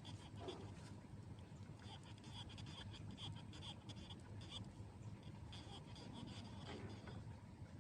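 Faint high-pitched animal chirping, short calls repeating irregularly, over a low steady hum.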